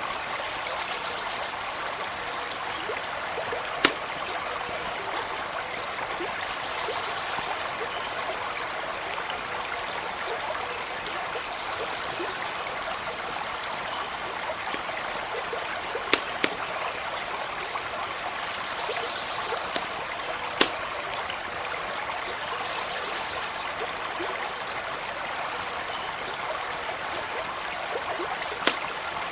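A stream running steadily in an even rush, with a handful of sharp pops from a wood campfire scattered through it.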